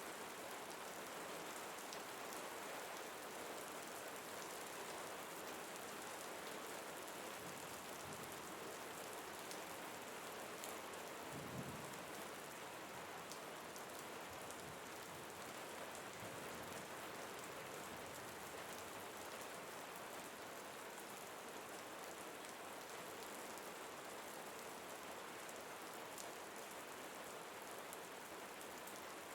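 Steady rain mixed with brown noise, an even hiss with no breaks. A brief low thump or rumble comes about twelve seconds in.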